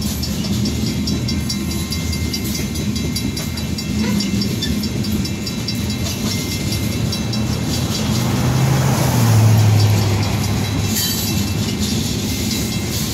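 Coal train's gondola cars rolling past: steady rumble of steel wheels on rail with wheel clatter over the joints, while a grade-crossing bell rings rapidly. A low hum swells and fades about eight to ten seconds in.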